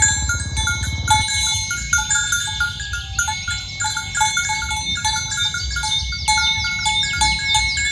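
Bells hung on a walking herd of cattle clanking irregularly and continuously, several bells at different pitches. A low buzz sounds in the first second, and a rapid series of high chirps joins near the end.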